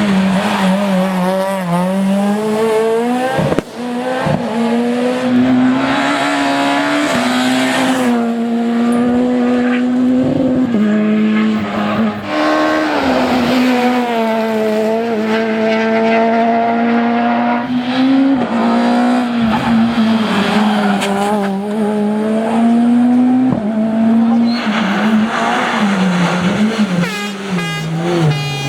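Super 2000 rally cars' naturally aspirated two-litre four-cylinder engines at racing speed, revving up and dropping back repeatedly through gear changes, in a run of abrupt switches from one car to the next. Some tyre squeal is heard.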